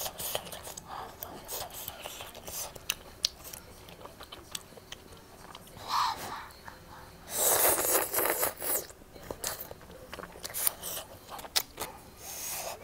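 Close-miked eating sounds of a person chewing, with many small wet mouth clicks and smacks. About seven seconds in there is a louder, noisier stretch lasting about a second and a half, and a shorter one near the end.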